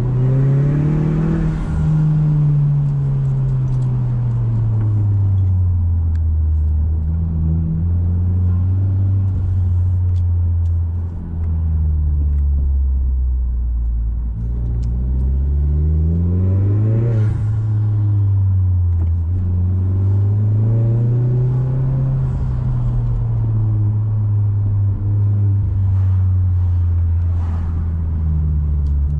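Mazda6's turbocharged four-cylinder engine heard from inside the cabin while driving a winding road, revs climbing and falling several times as the car accelerates and eases off, with a sharp climb about sixteen seconds in.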